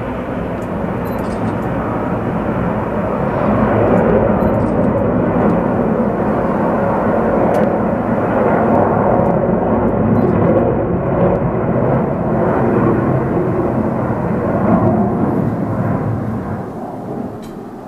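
Engines of display aircraft in a formation flypast, a loud, steady rushing noise that swells about four seconds in and fades away near the end.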